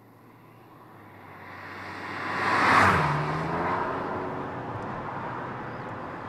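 Volkswagen Scirocco R's turbocharged 2.0-litre four-cylinder engine as the car drives past. The sound builds to its loudest about three seconds in, and the engine note drops in pitch as the car goes by. It then runs on steadily as the car pulls away.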